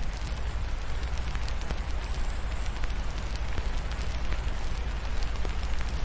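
Log fire crackling with scattered pops over a steady rain hiss and a low rumble.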